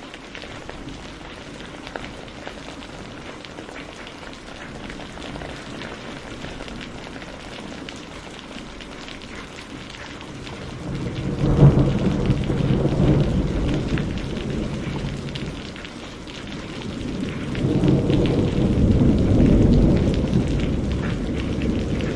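Steady rain falling, with two long rolls of thunder: the first breaks about halfway through and fades over several seconds, the second builds a few seconds later and is still rumbling at the end.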